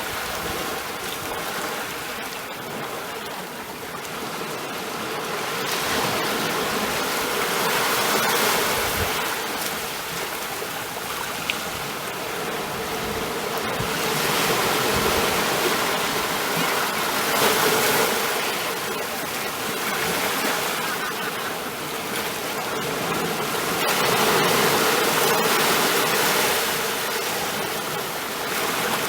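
Ocean surf: a continuous rush of waves breaking and washing in, swelling louder and easing off every several seconds.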